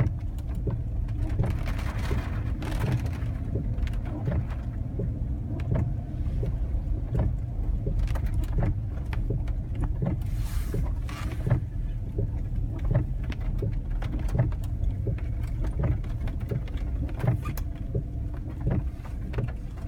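Steady low rumble of a car's engine and tyres heard from inside the cabin, with many small knocks and rattles along the way.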